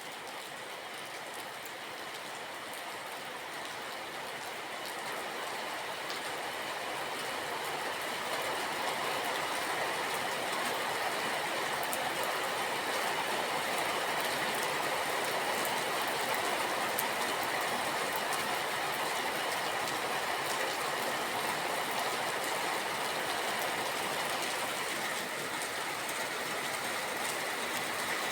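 Steady rain, growing louder over the first several seconds and then holding even.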